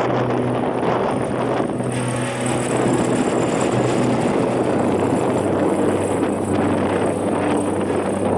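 Jet airliner engines running loud and steady during a landing or take-off, with wind buffeting the microphone.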